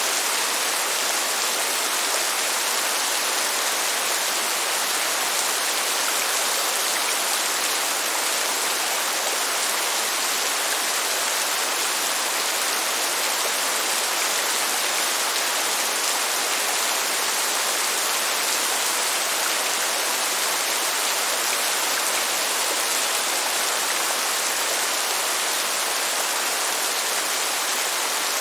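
Steady, heavy rain: a dense, even hiss with no thunder.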